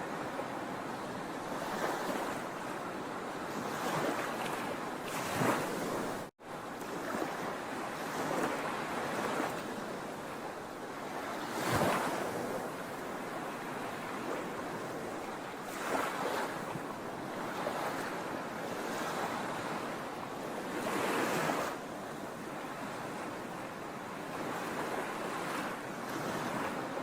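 Sea waves breaking on a shore: a steady rush of surf, with a wave peaking every few seconds and one louder break about twelve seconds in. The sound drops out for a split second about six seconds in.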